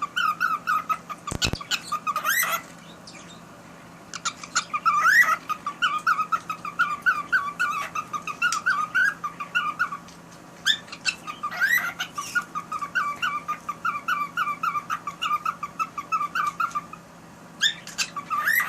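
Cockatiel singing: long runs of quick warbled chirps with a few rising whistles, broken by short pauses.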